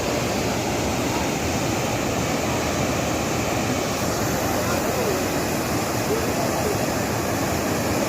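Swollen floodwater rushing steadily, an unbroken wash of water noise.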